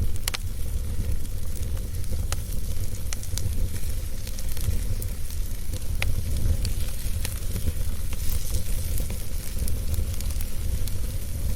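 Wood fire burning in a fireplace, crackling with scattered sharp pops over a steady low rumble of the flames. The sharpest pop comes about a third of a second in.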